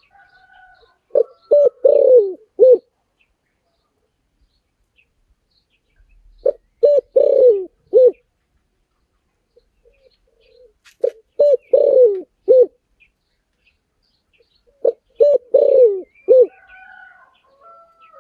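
Spotted dove singing its cooing song four times, a phrase about every four to five seconds: short coos, a longer falling coo, then a final short coo. Faint higher chirps of small birds come between the phrases.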